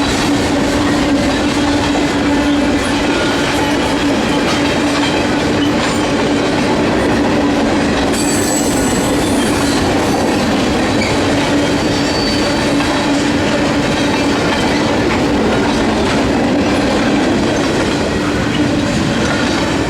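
Freight train cars rolling past at close range: a steady, loud rolling rumble of wheels on the rails, with a brief high wheel squeal about eight seconds in.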